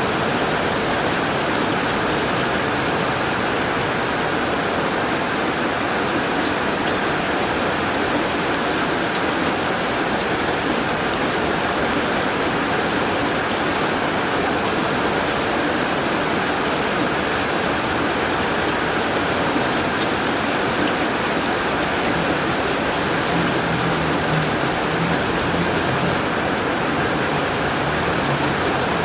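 Steady heavy rain drumming on a tin roof, with individual drops ticking sharply through the even hiss. A faint low rumble comes in near the end.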